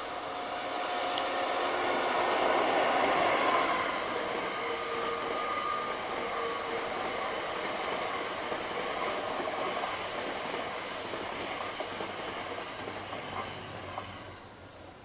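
A train passing on the track: the running noise swells to its loudest about two to three seconds in, then slowly recedes and fades out near the end.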